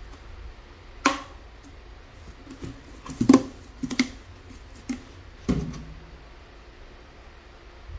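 A handful of sharp knocks and clacks, the loudest cluster a little past the middle, of hard parts being handled and set down.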